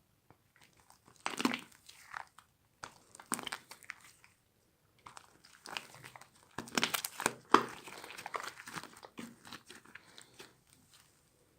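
Crunchy slime being squeezed and pressed by hand, giving irregular bursts of crackling and popping with short pauses between them, loudest a little past the middle.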